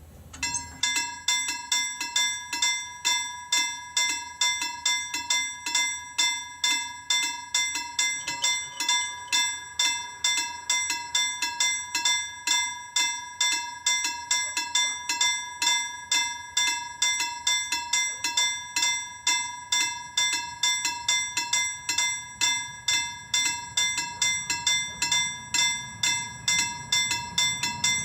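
Level crossing warning bell ringing in quick, even strokes, about two a second, starting about half a second in: the crossing is warning of an approaching train. A low rumble grows beneath it near the end.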